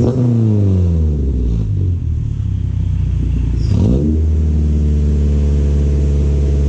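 Honda EG Civic engine revving through a K-Tuned 2.5-inch titanium straight-through muffler, with no catalytic converter or resonator, on a cold start. The revs fall back from a blip and settle, then rise sharply about three and a half seconds in and are held steady.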